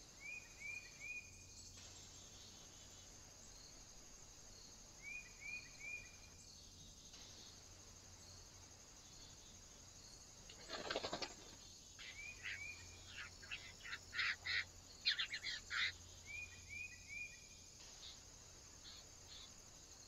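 Birds at a feeder: a short phrase of three quick chirps comes three times. Near the middle there is a burst of wing flapping, then a run of sharp loud clicking calls from a Eurasian jay. A steady high insect hiss sits under it all.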